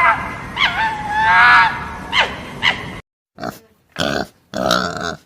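A puppy whimpering and yipping in short, wavering cries. Then, after an abrupt cut, three short, low, grunting animal calls.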